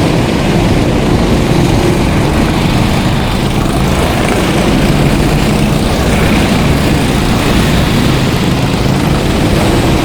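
Several racing kart engines running at speed close by: a loud, continuous engine drone whose pitches rise and fall as the karts go round.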